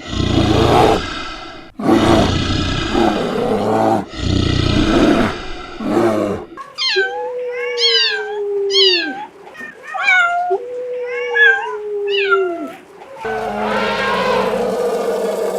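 A cat calling repeatedly: rough, loud yowls in the first half, then a run of drawn-out meows about a second each, falling in pitch.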